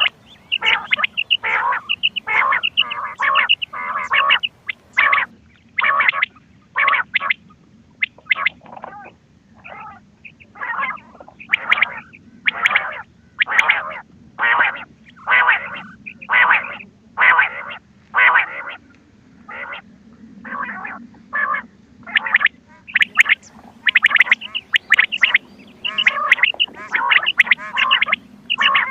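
Recorded quail (bater) calls played as a hunting lure: a continuous run of short, repeated calls, about one to two a second.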